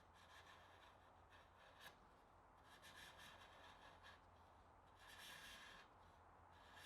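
Faint rubbing strokes of hand work on wood, three or so slow strokes a couple of seconds apart.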